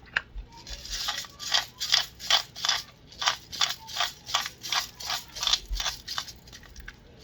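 Spice shaker bottle of garlic and herb seasoning being shaken, a dry rattle repeated about three times a second, some fifteen shakes in all.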